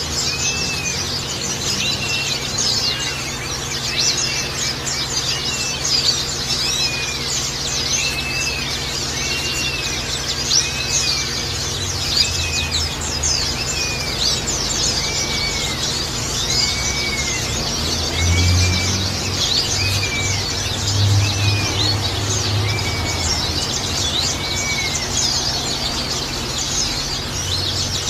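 A bird repeats a short rising-and-falling whistle about once a second over a dense bed of high chirps and trickling, splashing water, a sound used to calm a caged songbird and coax it into singing.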